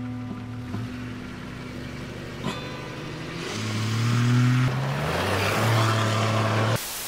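Jeep Cherokee XJ engine running as the SUV pulls away and drives along a dirt track. Its note rises as it accelerates about three and a half seconds in, then grows louder with a rush of tyre noise, and it cuts off suddenly near the end.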